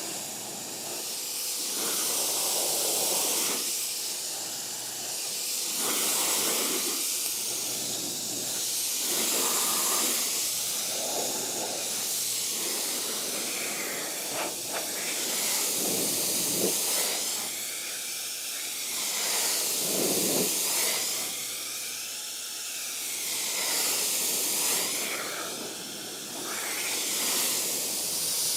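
Pressure-washer or foam-gun spray hissing against a car's bodywork as it is washed, swelling and fading every couple of seconds as the jet sweeps over the panels.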